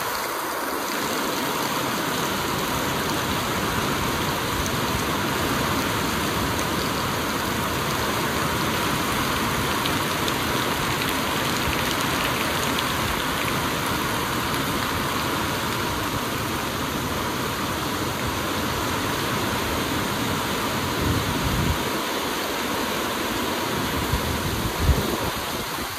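Heavy rain falling steadily in a dense, even hiss, with a few short low bumps near the end.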